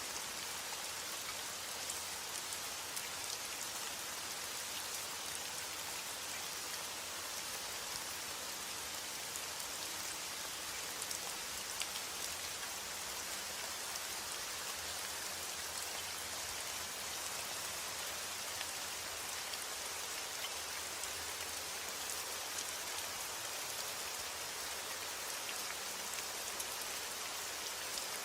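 Steady heavy rain: a continuous hiss with scattered sharp drop impacts through it.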